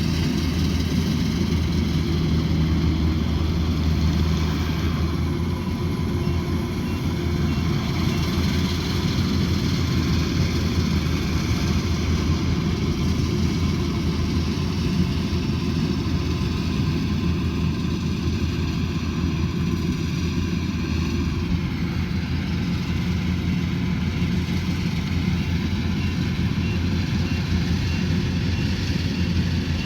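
Combine harvester's engine running steadily at work, a dense, even drone whose pitch shifts slightly about two-thirds of the way through.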